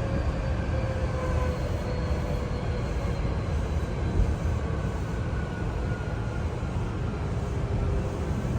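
Hankyu Kyoto Line electric train running between stations, heard from inside the car: a steady rumble of wheels on rail with a faint motor whine that slowly falls in pitch.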